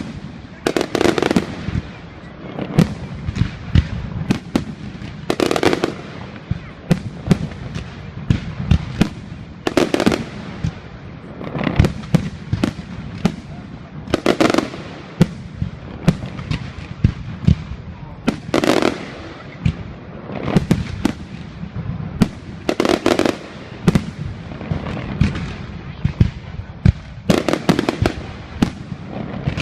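Fireworks display: a continuous run of sharp bangs and pops, with a bigger, longer burst about every four to five seconds.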